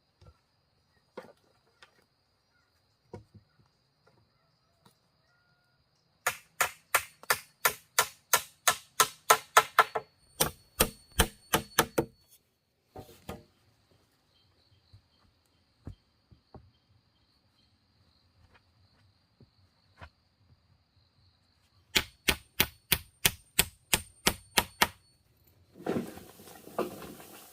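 Three quick runs of sharp strikes on wood, about four blows a second, with a few single knocks between them. Near the end comes a rustling, as of leaves or brush being handled.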